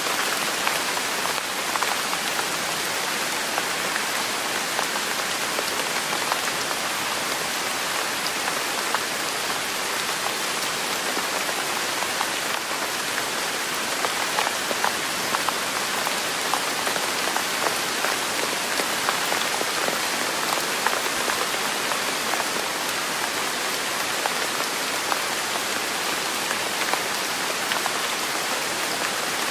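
Steady rain falling on a surface: an even hiss full of small, distinct drop impacts, holding level throughout.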